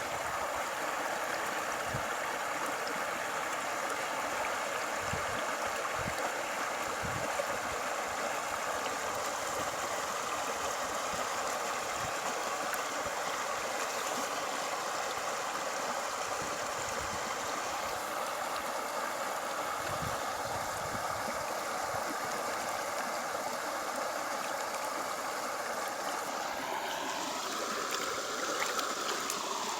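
Steady rush of running water. Near the end an engine comes in, rising and falling in pitch.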